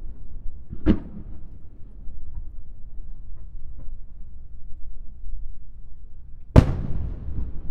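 Aerial fireworks shells bursting: two sharp booms, one about a second in and a louder one near the end, each trailing off in a long echo, over a low rolling rumble of more distant bursts.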